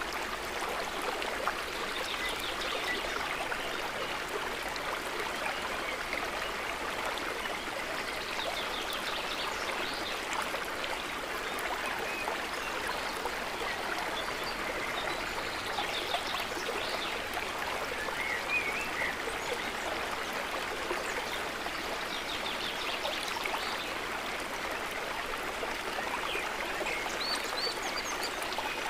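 Water trickling and gurgling in a steady, even flow, with a few brief high chirps now and then.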